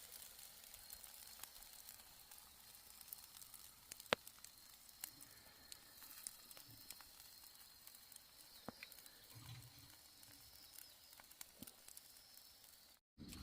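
Faint crackling of a wood fire, with scattered small ticks and one sharp pop about four seconds in.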